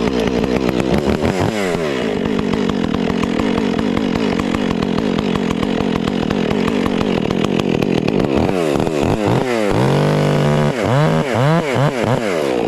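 Stihl MS 400 C two-stroke chainsaw running hard, pulled down to a steady lower pitch for several seconds as it works through the wood, then revved up and down several times near the end, once briefly held at full throttle.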